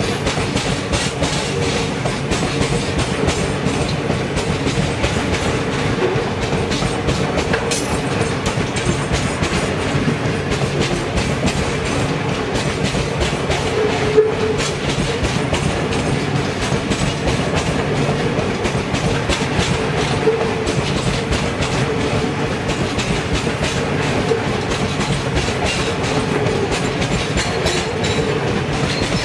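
Loaded coal wagons of a heavy-haul coal train rolling past close by: steel wheels on the rail in a steady rumble, with a dense, rapid clickety-clack over the joints and a couple of louder knocks along the way.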